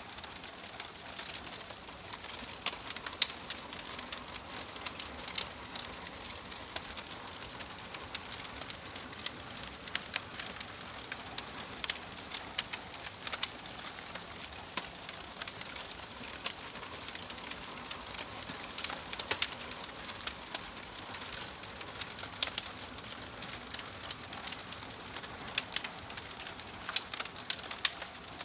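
Wood fire in a fireplace crackling: a steady hiss broken by many irregular sharp pops and snaps.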